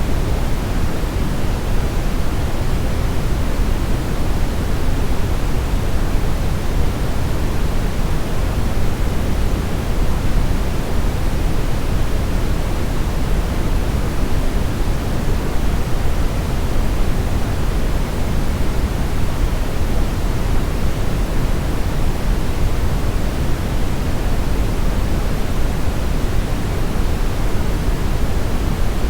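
Brown noise: a steady, deep rushing hiss, its energy heaviest in the low end and falling away toward the treble, with no changes or events.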